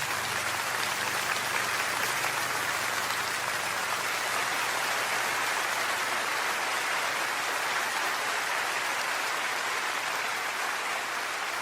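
Concert audience applauding steadily after a piano solo.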